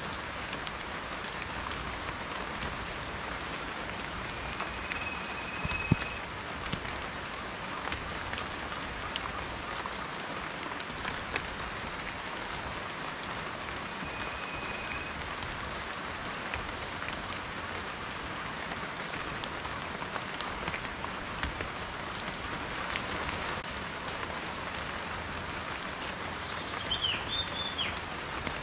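Steady rain, with individual drops ticking sharply on a surface throughout and one louder drop hit about six seconds in. A few short high tones and a brief high chirp near the end sound over the rain.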